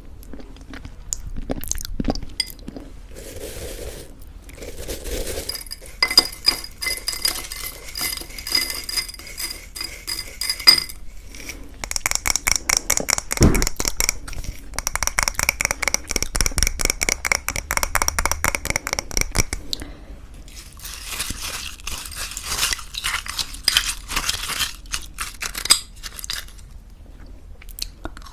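A spoon scraping and clinking in a bowl of granola and thick yogurt, in long runs of rapid little clicks with a faint ringing over them, alongside the crunch of granola.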